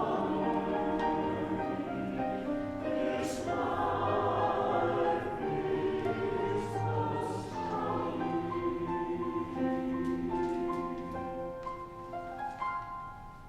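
Choir singing with piano accompaniment as the piece draws to a close. The sound dies away near the end.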